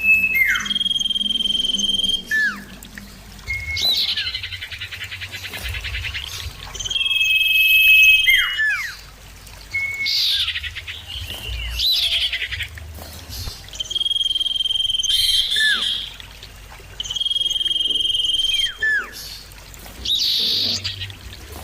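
Common iora (cipoh) calling loudly: a long, steady high whistle followed by quick downward-sliding notes, the phrase repeated about every four seconds.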